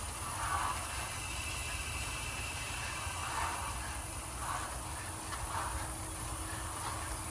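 Irrigation sprinklers spraying water, a hiss that swells a few times, over steady insect chirring.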